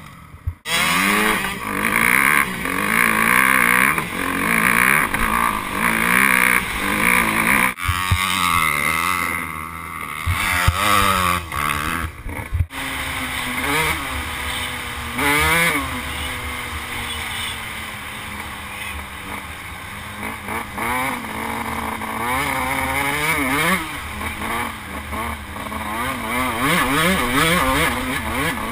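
Dirt bike engines running hard, revving up and down repeatedly as the bikes accelerate and shift, with abrupt cuts about eight seconds in and again near thirteen seconds.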